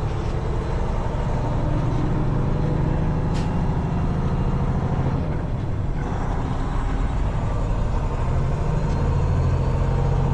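Diesel semi-truck engine pulling a heavy-haul trailer away under load, heard from inside the cab, with a steady low drone whose pitch shifts a few times. A single short click about three seconds in.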